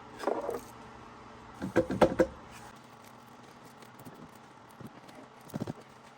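Three short bursts of clinking and knocking from hand tools and engine parts being handled under the hood. The loudest cluster comes about two seconds in and a smaller one near the end.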